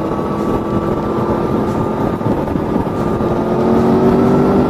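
Aprilia Tuono V4 motorcycle's V4 engine running under way at a steady pitch, which edges up gently in the second half as the bike picks up speed, with rushing wind noise.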